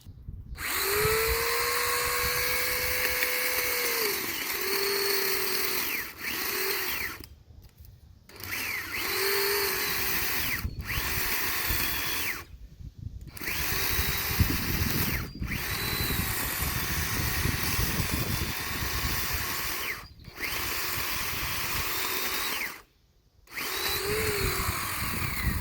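Sun Joe 12-inch electric chainsaw running and cutting wood, its motor whine cutting out and starting again many times, with short silences between runs.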